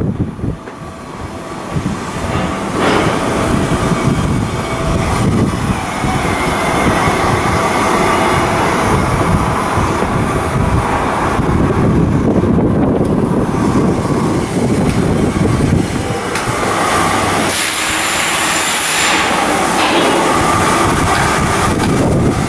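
Continuous heavy machinery and metalwork noise from shipbuilding work, with a brief hiss about three-quarters of the way through.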